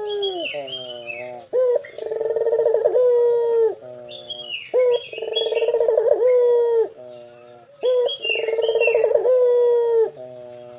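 Puter dove (ringneck dove) cooing: a long, deep, drawn-out coo that drops at its end, then a short rising note, repeating about every three seconds. Smaller birds chirp faintly in the background.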